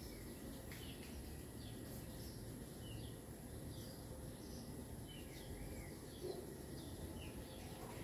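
Small birds chirping repeatedly in short, high calls over steady low background noise.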